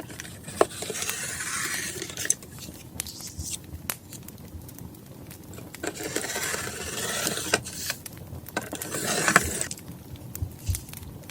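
Paper being handled in three scraping, rustling stretches, the longest about a second in and around six seconds, a shorter one near nine seconds, over a crackling wood fire with scattered pops.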